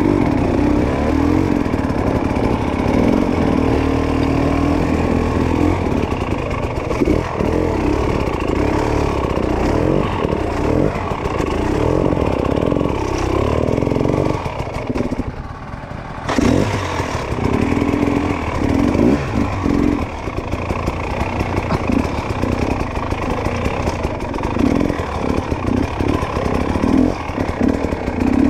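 Dirt bike engine revving up and down in short bursts as it is ridden. About halfway through it drops away briefly, then picks back up.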